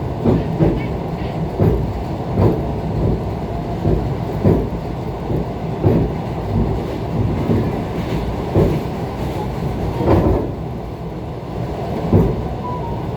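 ET2 electric train running at speed: a steady low rumble of wheels on rail with sharp knocks every second or two as the wheels pass over rail joints, the loudest about ten seconds in.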